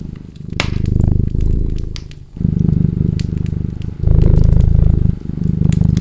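A cat purring in long low stretches, one breath after another with short breaks between them, over the pops and crackles of a wood fire; one sharp crackle stands out less than a second in.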